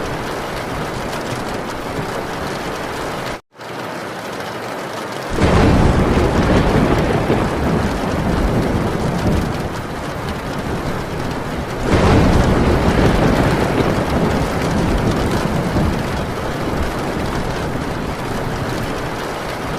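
Heavy rain falling on a metal tin roof, with thunder rumbling in twice, about five and twelve seconds in, each time loud and low, dying away over several seconds. The sound cuts out for a moment about three and a half seconds in.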